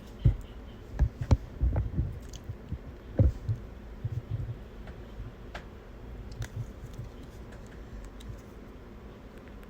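A quick run of dull knocks and thumps, thickest in the first few seconds, then thinning to a few faint taps and clicks.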